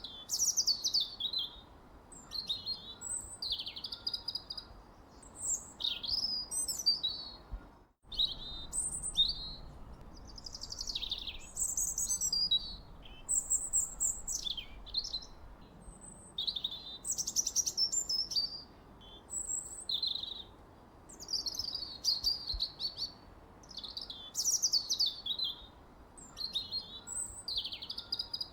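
Songbirds singing continuously: a busy run of short high chirps and quick falling whistles, phrases overlapping one another, over a faint steady hiss. The sound drops out briefly about eight seconds in.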